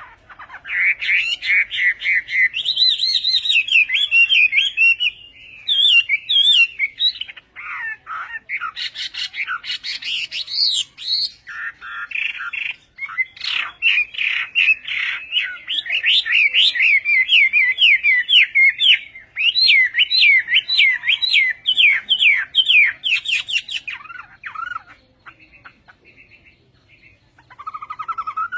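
A hwamei singing a long, loud, varied song of rapid whistled phrases and fast trills, with a lull near the end.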